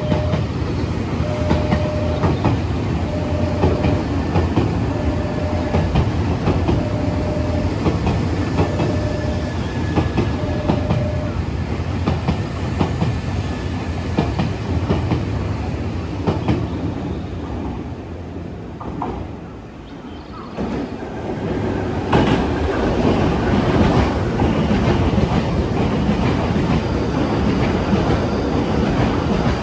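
Nankai 6000-series electric commuter train running along the platform, a steady rumble with wheel clicks, while a short beep repeats about every two seconds for the first ten seconds or so. After a brief lull about twenty seconds in, a Semboku Rapid Railway 9300-series electric train comes through close by, louder, with more wheel clicks.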